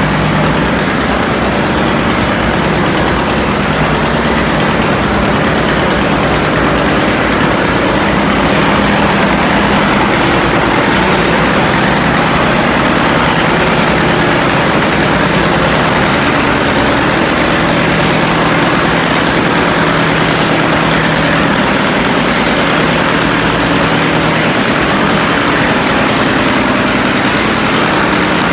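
Antique pulling tractor's engine running loud and steady at high revs under load during a pull, its exhaust firing in a rapid, even rattle.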